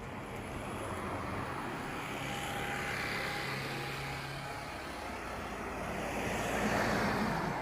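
Airbus A320-232 jet airliner with IAE V2500 turbofan engines coming in to land: a rushing jet noise with a faint steady whine that slowly grows louder, is loudest near the end, then begins to fade as it passes.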